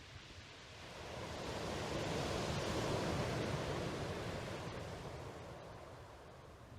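Sea waves washing in: a smooth rush of surf that swells over about two seconds and then slowly dies away.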